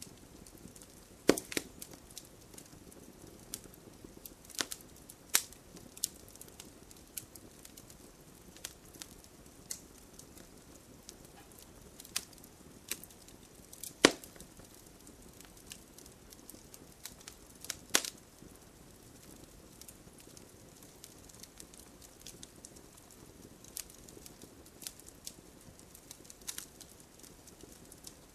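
Wood fire crackling, with irregular sharp pops and snaps over a soft low hiss; the loudest pops come about a second in, near the middle, and a few seconds later.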